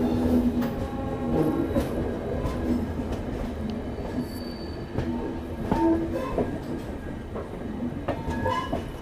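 Train running on a single-line ghat section, wheels rumbling on the rails with short high-pitched squeals from the wheels on the curves. A steady diesel locomotive hum fades about a second in.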